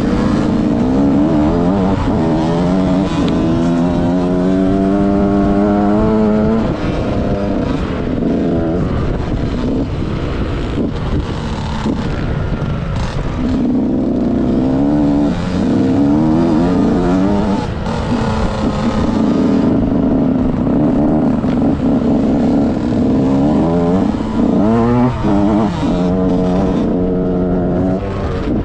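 2006 KTM SX 65's single-cylinder two-stroke engine revving hard on the track, its pitch climbing in several runs as it pulls through the gears and dropping off when the throttle is shut, about three times.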